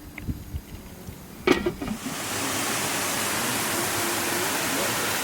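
A knock, then from about two seconds in a steady, even rush of fast-flowing water.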